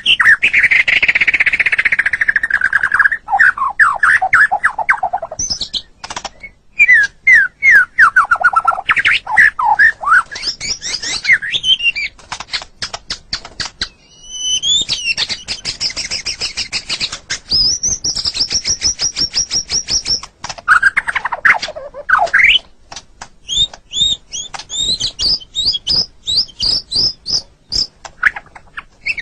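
White-rumped shama (murai batu) singing a long, varied song: rich whistled phrases, fast trills and rapid strings of clicking notes, with several phrases falling steeply in pitch.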